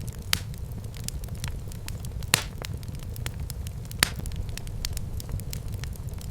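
Wood fire burning in a fireplace: a steady low rumble of flames under irregular crackles and pops, with two louder pops at about two and a third seconds and about four seconds in.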